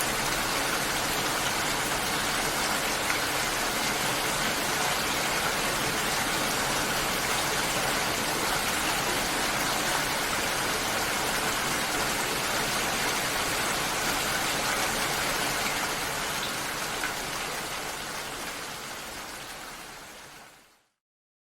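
Steady rushing water noise, fading out over the last few seconds into silence.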